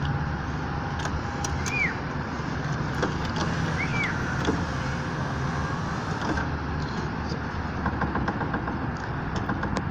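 Power window motor running to lower the glass in a frameless car door, over a steady engine hum. The regulator's plastic slider bushings are worn, which lets the glass rattle and knock as it travels.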